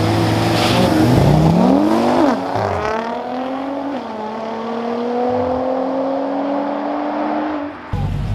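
Two street-race cars held at high revs on the start line, then launching: engine pitch climbs sharply, with a gear change about two seconds in. The pitch then keeps rising slowly as they pull away. Near the end the sound switches abruptly to another car's low engine rumble.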